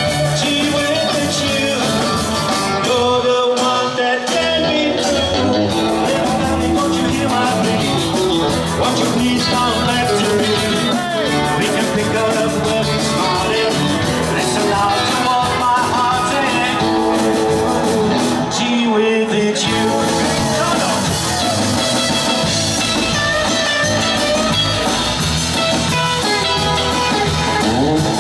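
Rock and roll band playing live, with electric guitar over bass and drums in an instrumental passage between sung verses.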